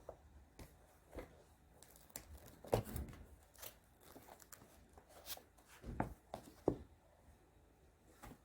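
Scattered light knocks, taps and rustles of objects being handled close by, with a few sharper knocks about three seconds in and again around six to seven seconds in.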